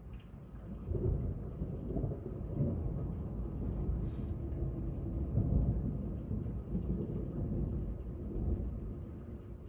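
Thunder rumbling low, swelling about a second in, rolling on for several seconds in uneven surges, then easing near the end.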